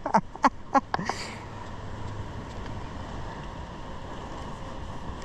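Steady rushing of a flowing river, after a few short clicks in the first second.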